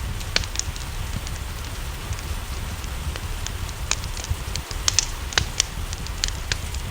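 Wood fire crackling, with irregular sharp pops that come thicker in the second half, over a steady low rumble and the hiss of rain.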